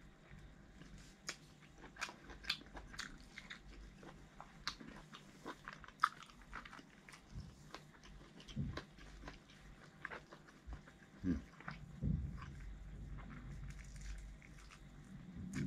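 Close-miked chewing and biting of air-fried barbecue duck, with many short wet mouth clicks and smacks.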